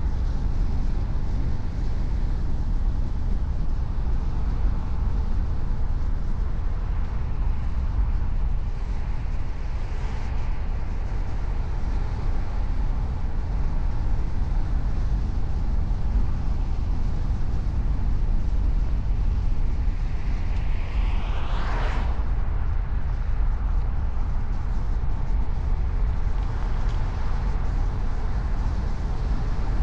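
Steady low road and engine rumble of a car driving. Another vehicle sweeps past about 21 seconds in.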